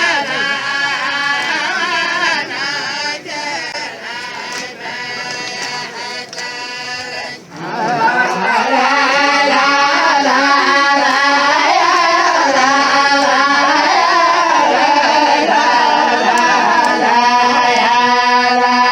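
A group of voices chanting a tribal la'ib song in unison. About seven and a half seconds in, after a brief dip, a fuller and louder chorus comes in and holds steady.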